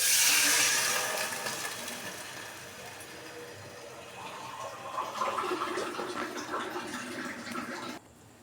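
Water being poured into a cooking pot of spiced masala: a rushing splash that starts loud and fades over a few seconds, then quieter bubbling and splashing.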